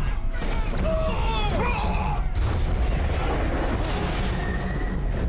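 Action-scene sound mix of a deep, continuous rumble with booms, and briefly, about a second in, rising and falling shouts or a screech over it.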